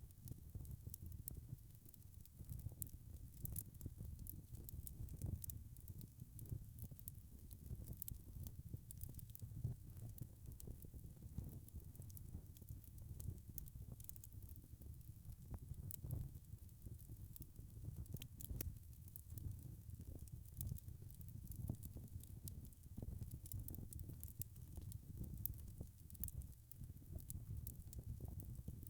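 Wood fire crackling: frequent small, irregular pops and snaps over a low, steady rumble of burning logs.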